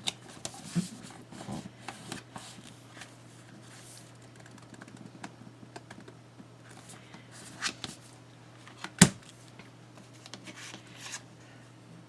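Sheets of craft paper being handled and rustled, with scattered light taps and clicks; a single sharp tap about nine seconds in is the loudest.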